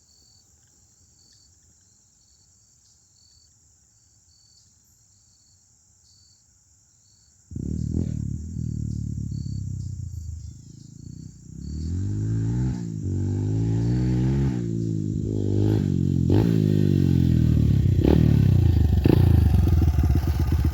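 Honda CRF100 dirt bike's single-cylinder four-stroke engine catching suddenly about seven and a half seconds in as the bike is roll-started in second gear, then running and revving up and down, sagging briefly before picking up and revving higher: the roll start has worked. Before it catches, only crickets chirping.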